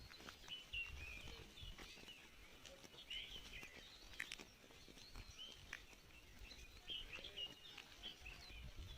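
Faint outdoor ambience with many small birds chirping in quick, repeated short calls throughout, over a low rumble and scattered light clicks.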